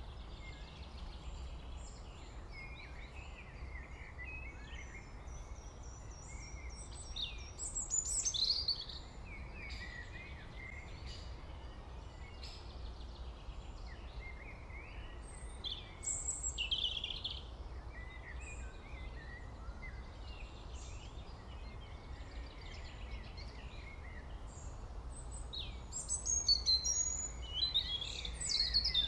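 Birds chirping and calling in many short, varied notes, with louder bursts of chirping about 8 seconds in, around 16 seconds, and near the end, over a steady low rumble.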